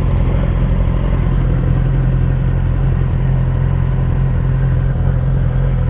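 Motorcycle engine idling steadily at a constant low pitch.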